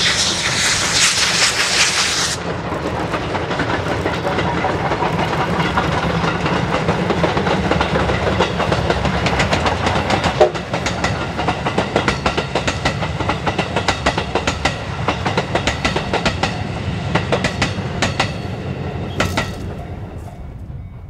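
A steam-hauled train of D51 200 and its coaches is passing on the rails. A loud hiss in the first two seconds stops suddenly. Then the wheels clatter over the rail joints in a quick clickety-clack that fades near the end.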